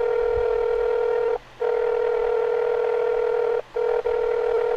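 Telephone line tone heard through the handset while a call is being connected: one steady electronic tone held for about two seconds at a time, broken by short gaps about a second and a half in and again near the end.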